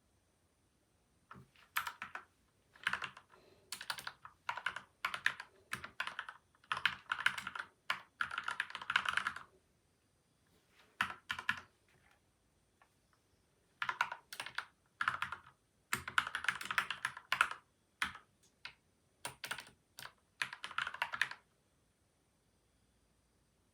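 Typing on a PCL87 mechanical keyboard with lubed switches and stabilisers and a tape-and-foam mod: fast runs of keystrokes in several bursts with short pauses, stopping near the end.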